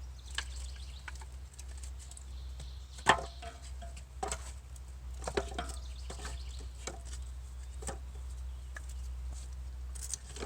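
Dry sticks clicking and knocking against each other as they are stacked by hand into a small log-cabin fire lay, with one sharper knock about three seconds in.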